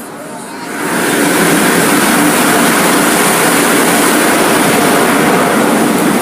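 Loud, steady rushing noise of automatic car wash equipment, swelling in about a second in and then holding steady.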